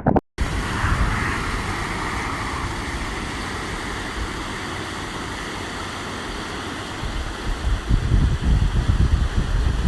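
Floodwater rushing down a flowing wadi: a steady, even rush of water noise. From about eight seconds in, low gusty buffeting joins it.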